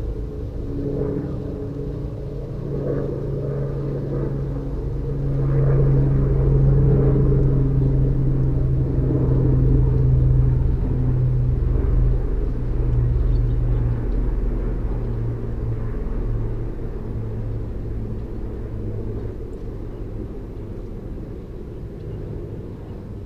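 A passing engine's low rumble and steady hum, swelling to its loudest in the middle and fading away.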